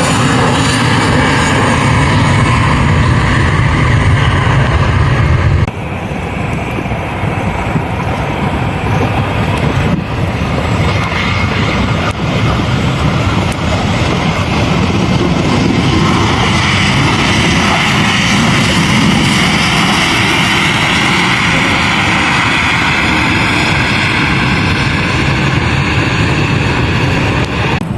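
Aircraft engines running loud and continuous, with a few slowly drifting tones over the roar. The sound drops abruptly about six seconds in, then carries on.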